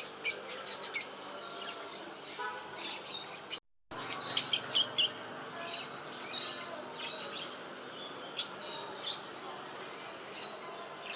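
Small pet birds chirping in quick clusters of short, high-pitched calls, busiest near the start and again around the middle, with scattered single chirps later. The sound cuts out for a moment just before the middle.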